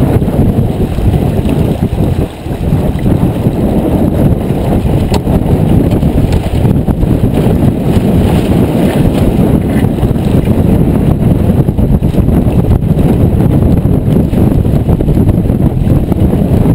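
Wind buffeting the microphone aboard a sailboat under way: a loud, steady low rumble with a brief lull about two seconds in.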